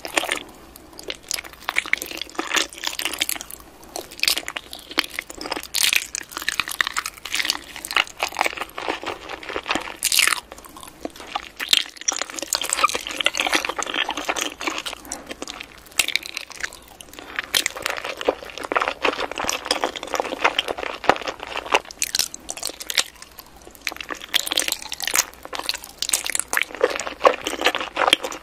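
Close-miked eating: soft, wet chewing with many small sticky mouth clicks and smacks from a soft milk-tea dessert studded with chewy tapioca pearls. The sounds come in clusters, with brief quieter gaps between bites.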